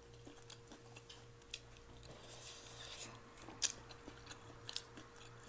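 Faint chewing and eating sounds close to the microphone, with a few soft clicks, the sharpest about three and a half seconds in, over a low steady hum.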